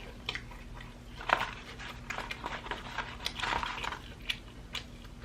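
Crunchy bites and chewing of fried chicken dippers, in scattered short crunches with small clicks, the biggest about a second in and around three to four seconds in.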